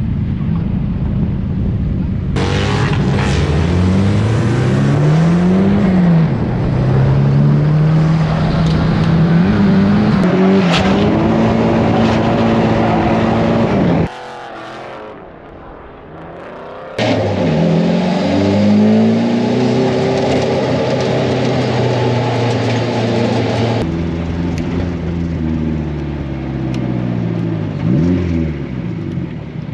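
Drift car engines revving hard on track, their pitch repeatedly climbing and dropping with throttle and gear changes, in a string of cut-together clips. The sound drops away for about three seconds around the middle.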